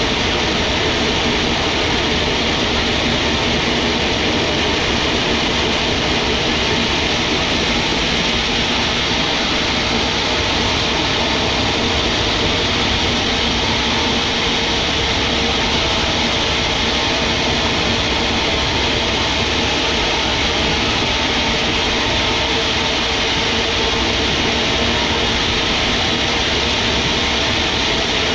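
Sawmill machinery running steadily: a loud, continuous mechanical din with a constant hum and no pauses or changes.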